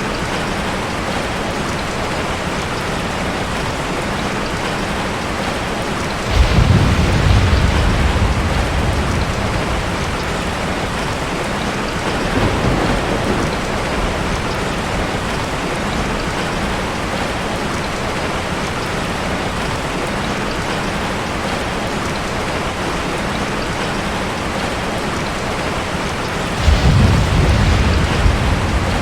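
Steady rain with rolls of thunder: a low rumble breaks in suddenly about six seconds in and again near the end, each fading over a few seconds, with a fainter one in between.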